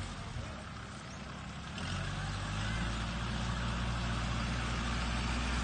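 Tractor engine running steadily at a low pitch, dipping for the first couple of seconds and picking back up about two seconds in.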